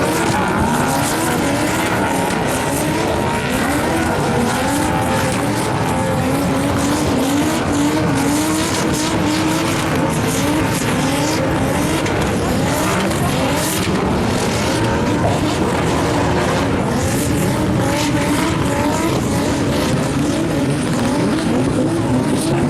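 Turbocharged drift car engine revving in short rising sweeps about once a second, with tyres squealing as the car slides.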